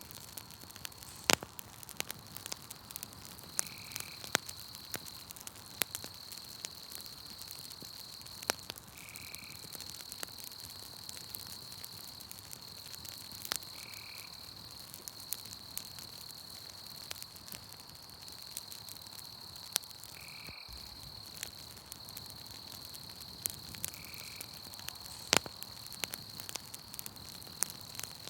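Wood fire crackling, with irregular sharp pops, over a steady high-pitched insect trill. A short call repeats about every five seconds.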